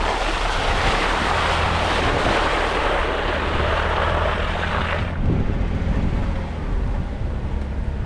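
Jeep Wrangler driving at low speed, its engine giving a steady low hum, overlaid for about the first five seconds by a loud rushing noise that cuts off suddenly.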